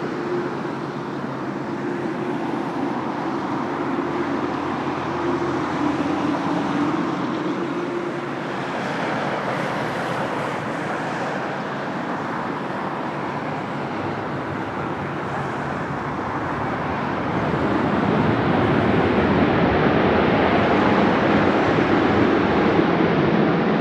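Jet airliner's engines, a steady roar with a hum that fades out within the first eight seconds; the noise grows louder about 17 seconds in.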